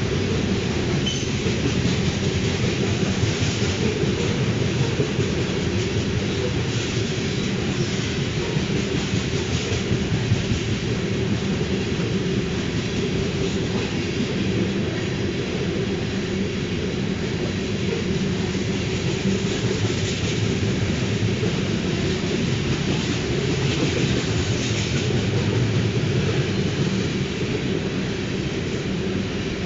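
Freight train rolling past steadily for the whole stretch, its wheels running on the rails, with the hiss of rain.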